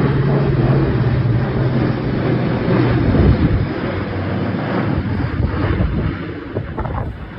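Military aircraft flying past, a loud drone whose low engine tone drops in pitch about three seconds in as it passes, with wind buffeting the microphone.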